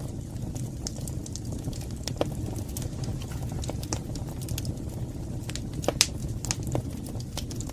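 Wood fire burning in a fireplace: a steady low rumble of flames with scattered sharp crackles and pops, the loudest pop about six seconds in.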